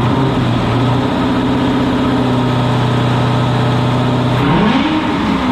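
2002 Corvette Z06's LS6 V8, fitted with long-tube headers, running steadily, then revved once about four and a half seconds in, the pitch rising and falling back.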